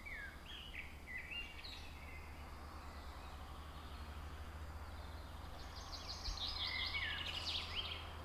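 Songbird singing: a few short chirps that slide in pitch, then later a quick trilled phrase of rapidly repeated notes, over a low steady rumble.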